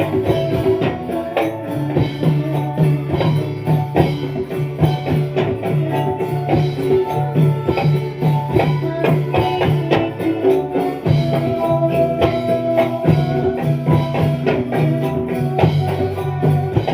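Live dolalak ensemble music without singing: frame drums and jingling percussion keep a steady, dense beat over held melodic tones.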